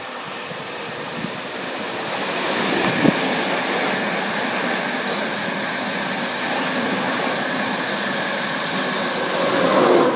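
An express passenger train passing close beneath. It makes a steady rush of wheels on rails that builds as it approaches and is loudest near the end, with one sharp knock about three seconds in.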